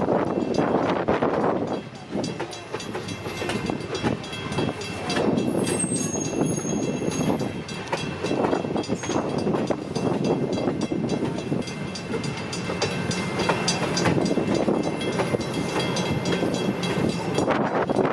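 A passenger train running past on the rails, loud and steady, with a brief dip about two seconds in.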